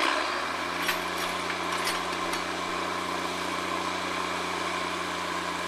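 Truck engine running at a steady idle, coming in suddenly at the very start, with a few sharp clicks or knocks in the first couple of seconds.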